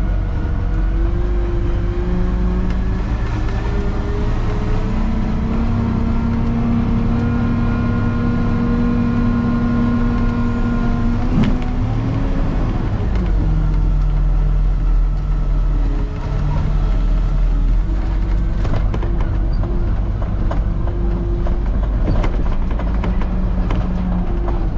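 Peterbilt truck's diesel engine running steadily under way. Its pitch climbs over the first few seconds, holds, then drops about twelve seconds in before settling again.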